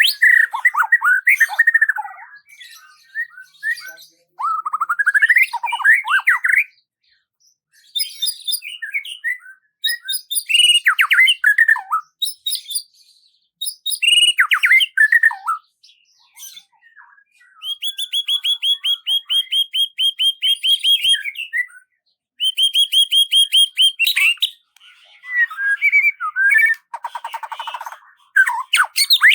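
A songbird singing in varied phrases of slurred, swooping whistles and rapid even trills, with short pauses between phrases.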